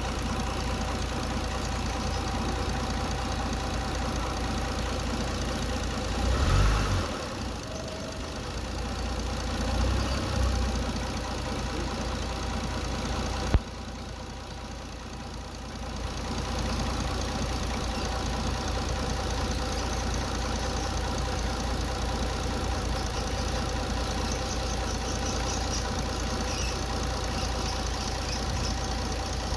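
Mitsubishi Galant V6 engine idling steadily. About six and ten seconds in the low rumble swells briefly twice. A sharp click a little before halfway is followed by a couple of seconds where the sound drops lower before settling back.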